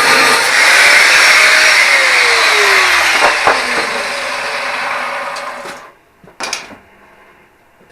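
Angle grinder winding down after being switched off, its pitch falling as it fades away about six seconds in. A short knock follows near the end.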